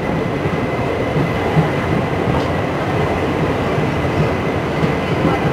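Indian express passenger train rolling slowly into a station: a steady rumble and clatter of the coaches' wheels on the rails, with a faint thin squeal running under it.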